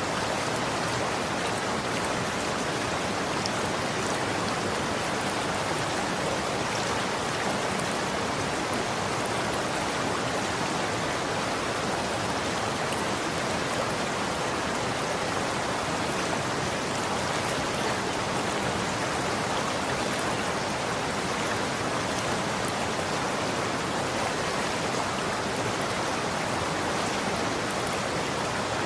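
Running water: a steady, even rush of flowing water with no change in level.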